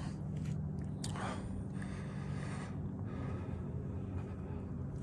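2021 Honda Civic Type R's 2.0-litre turbocharged four-cylinder idling, a steady low hum. A short breath close to the microphone comes about a second in.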